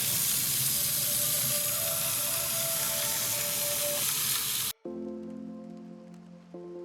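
Steady harsh hiss of steel being ground on a belt grinder, shaping the bevel of a knife blade. It cuts off abruptly about five seconds in, giving way to background music.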